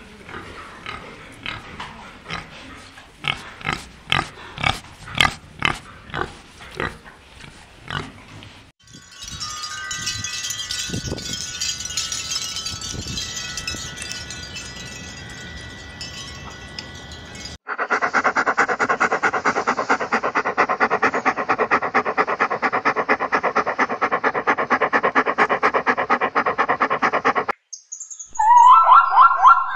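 A run of different animal sounds. First a warthog grunts in short separate sounds, about two a second, for some eight seconds. Then comes a hissing rustle with a few thin whistles, a long stretch of rapid, evenly repeated calls, and near the end a louder, higher call.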